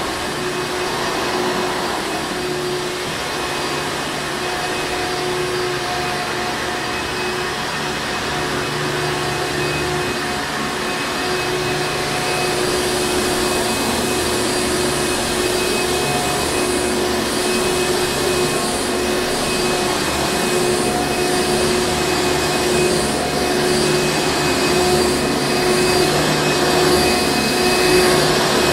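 Hoover Encore Supreme upright vacuum cleaner running steadily: an even motor hum with a constant whine over the rush of air, slightly louder toward the end.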